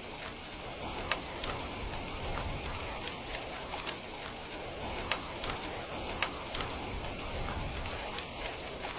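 Steady rain falling as an even hiss with a low rumble, with scattered sharp ticks and pops at irregular intervals.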